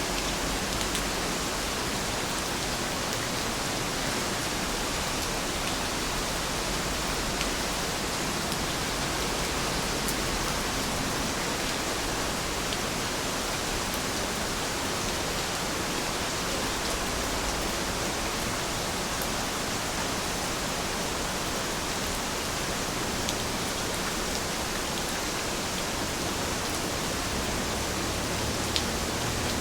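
Steady rain falling, an even hiss with a few sharp drop ticks scattered through it, one louder near the end.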